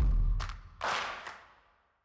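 A deep booming hit with a low rumble that fades out over about a second and a half, with hissing whooshes laid over it: a cinematic transition sound effect. It cuts to silence near the end.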